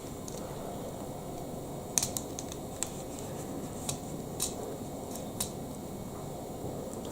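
Plastic Lego Technic pieces being handled and fitted together: a scatter of light, sharp clicks, most of them between about two and five and a half seconds in, over a steady room hiss.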